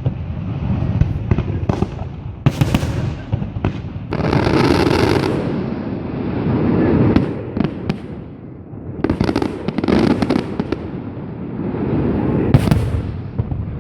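Aerial fireworks going off in a rapid series of sharp bangs, with a dense stretch of crackling about four seconds in and more bangs clustered later on.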